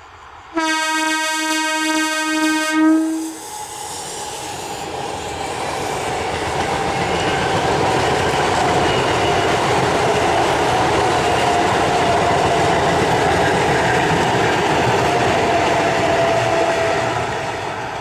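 EMU electric local train sounding one horn blast of about three seconds, then running past at speed: a steady rush of wheels on rail with a faint, slowly falling whine, fading near the end.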